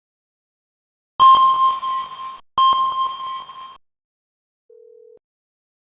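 Electronic alert tone sounding twice in quick succession, each a bright ringing tone of about a second with a sharp start, followed near the end by a faint short low beep.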